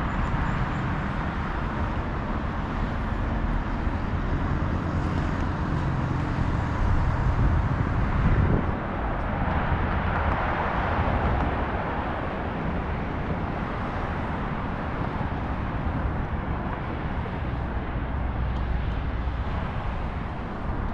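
Road traffic: a steady rumble of passing cars, swelling louder about seven to eleven seconds in as vehicles go by.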